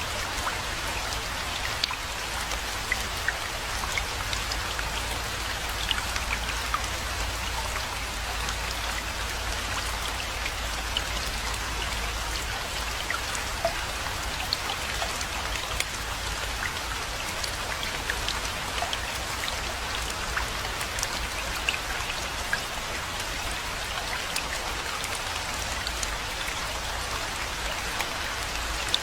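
Steady rainfall with many individual drops ticking sharply close by, over a low steady rumble.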